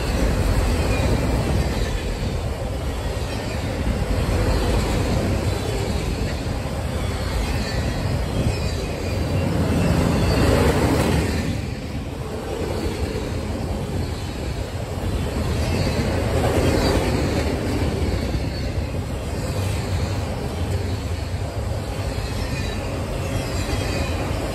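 Freight train of autorack cars rolling past close by: a steady rumble and rattle of steel wheels on the rails, swelling louder twice.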